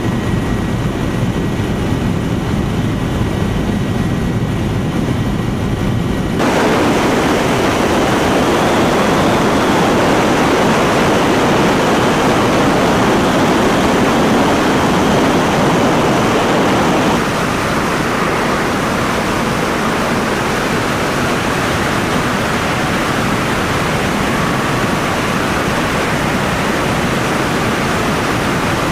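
Helicopter in flight: loud, steady rotor, engine and wind noise. The sound shifts abruptly about 6 seconds in, becoming brighter and louder, and again about 17 seconds in.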